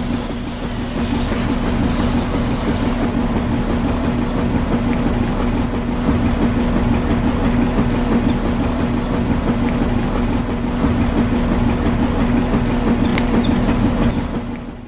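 Small electric motor running steadily with a rattling hum, cutting off at the very end.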